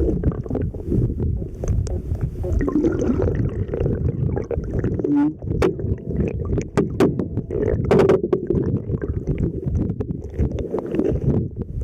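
Muffled rushing water heard through a waterproof camera held underwater beside a kayak, with a few sharp clicks and knocks around the middle.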